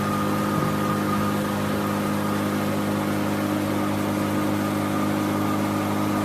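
Boat motor running at a steady cruising speed: a constant, unchanging drone over a steady hiss.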